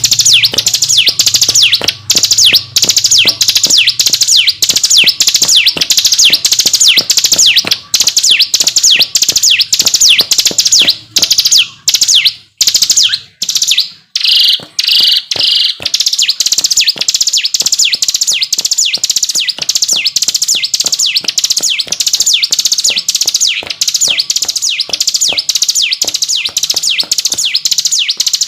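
Ciblek gunung singing its 'ngebren' song, a long, fast run of repeated short, high, down-sweeping notes at about three a second, with a short break about halfway through.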